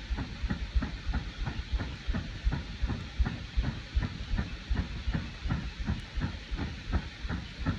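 Steady rain hissing, with heavy drops thudding irregularly close by, several a second.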